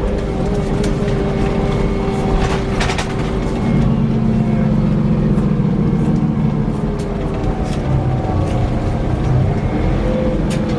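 Scania K340 coach running, its engine drone carrying a steady whirring whine that dips slightly in pitch near the start and rises again near the end. A few sharp rattles or clicks come about two to three seconds in.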